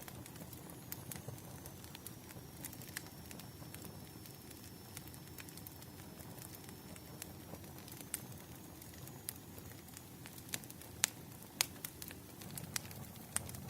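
Wood fire crackling: scattered sharp pops and snaps over a low steady hiss, the pops coming thicker near the end.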